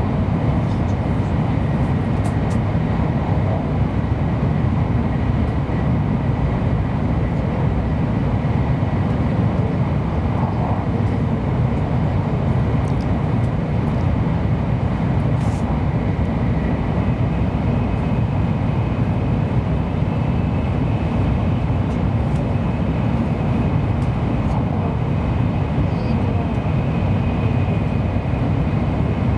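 Steady running noise of a Kyushu Shinkansen train at speed, heard inside the passenger cabin: an even low rumble with a faint thin high tone on top.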